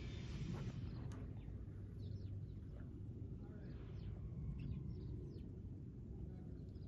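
Small birds chirping: many short, high chirps that fall in pitch, scattered throughout, over a steady low rumble.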